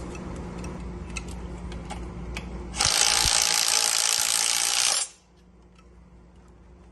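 A power tool runs in one steady burst of about two seconds and stops suddenly, after a few light clicks and knocks of tools on metal.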